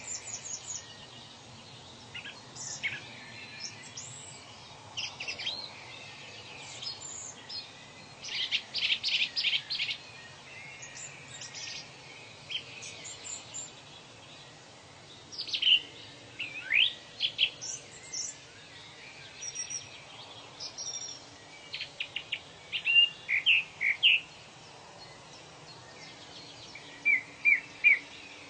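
Several birds calling and singing: sharp chirps, quick whistles sweeping up and down in pitch, and short fast trills of repeated notes, over a faint steady background noise.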